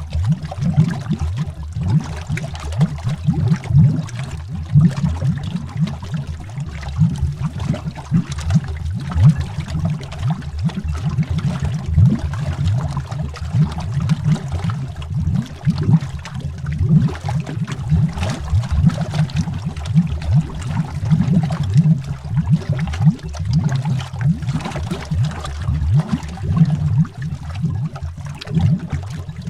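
Underwater bubbling: a continuous, dense stream of bubbles, low in pitch, with many quick irregular pops.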